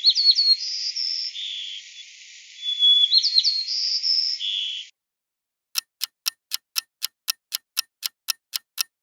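Sparrow singing the same short song twice: a held whistle, a quick run of notes, then a higher note and a lower buzzy one, over a background hiss. After a short pause, a quiz countdown timer ticks steadily, about four ticks a second.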